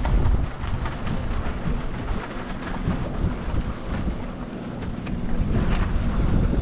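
Wind buffeting the microphone: a heavy low rumble with gusts that ease off in the middle and build again near the end.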